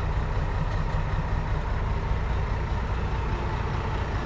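Scania 124 truck's six-cylinder diesel engine idling steadily with a low rumble.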